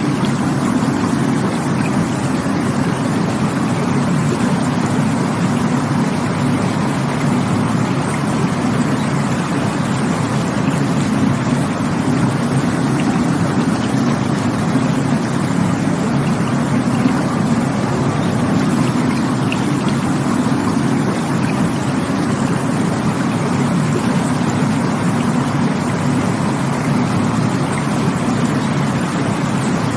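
Rushing water running steadily and evenly, a constant loud wash with no breaks.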